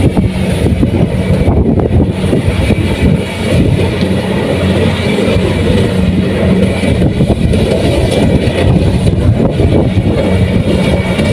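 Kubota rice combine harvester running steadily under load, a loud continuous engine and machinery drone with a steady low hum.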